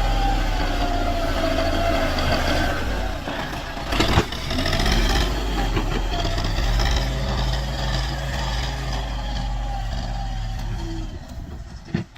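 Tractor diesel engine running steadily, with a higher whine slowly falling in pitch over the first few seconds and a sharp knock about four seconds in.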